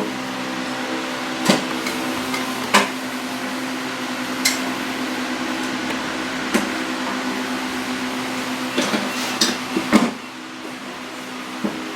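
Scattered sharp clinks and knocks of hand tools and parts being handled, with a cluster of them near the end, over a steady, multi-toned mechanical hum.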